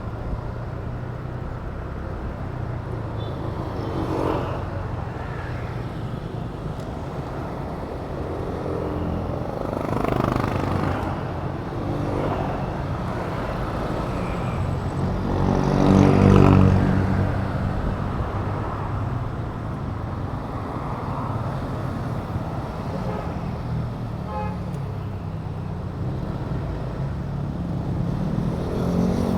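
Honda Click 125 scooter riding in traffic, its single-cylinder engine running steadily under road noise. Other vehicles pass close by several times, the loudest about halfway through, and an engine rises in pitch near the end.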